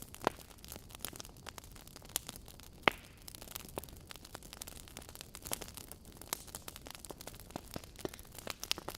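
Wood fire in a fireplace crackling: irregular sharp pops and snaps over a low steady hiss, with two louder pops, one just after the start and one about three seconds in.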